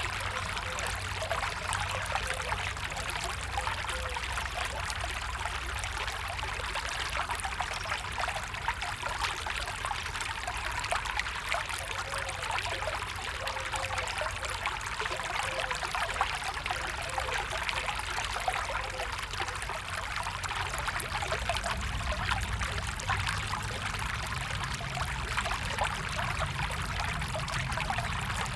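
A small stream running steadily, with constant trickling and gurgling water.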